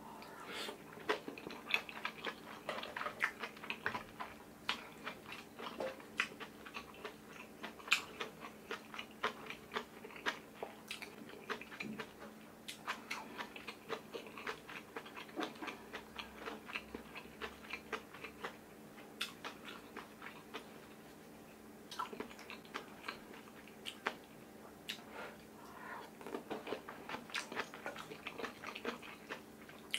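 A person chewing soft tofu with kimchi and rice close to the microphone, with many small wet mouth clicks and smacks. The chewing eases off for a few seconds a little past the middle, then picks up again.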